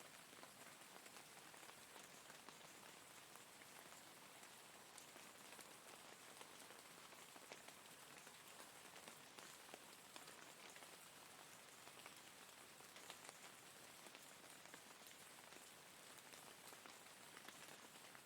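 Steady, faint rain: an even hiss dotted with many small drop ticks.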